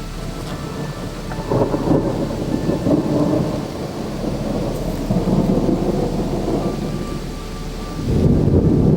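Thunder rumbling in rolling swells as a storm approaches, growing loudest near the end.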